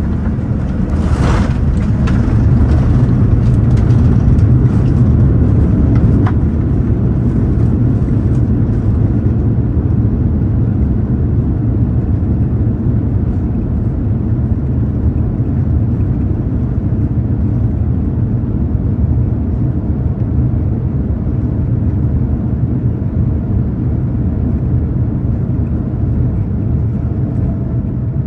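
Boeing 787-9 cabin noise on the ground just after landing: a loud, steady rumble of the wheels and engines. A higher hiss on top fades out over the first several seconds, with a brief sharp sound about a second in.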